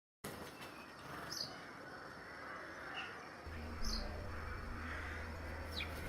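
Faint outdoor garden ambience with a few short, high bird chirps spaced a second or two apart. A low steady rumble comes in about halfway through.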